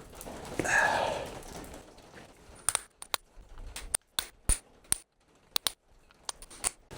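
Hand tools and steel parts working on the pins and snap rings of an excavator quick coupler: a short scrape about a second in, then scattered sharp metallic clicks and clinks.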